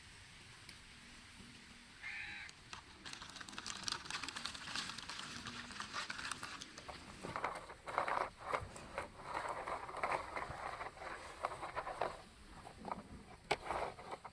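Toy vehicles being pushed and worked in sand: gritty scraping and rustling with many small irregular clicks, starting about four seconds in after a quiet start.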